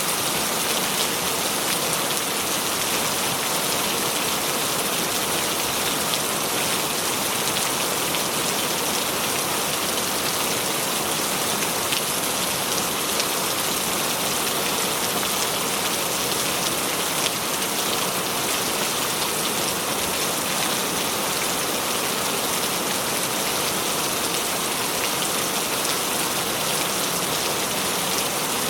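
Steady rain, an even hiss with a fine patter of drops throughout.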